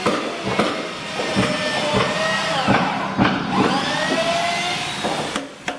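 Electric power tool working wood, its motor pitch dipping and recovering several times as it takes load, with scattered knocks.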